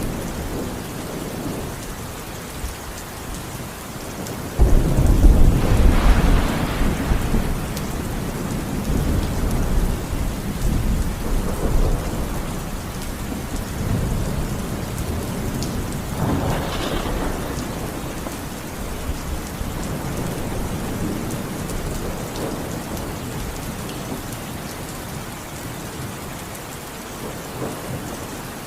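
Steady rain falling, with thunder: a sudden loud thunderclap about five seconds in that rumbles on for several seconds, and a second, weaker crack of thunder about sixteen seconds in.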